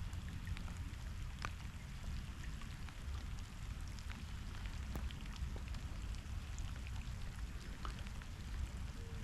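Steady rain, with scattered drops ticking sharply close by, over a low rumble.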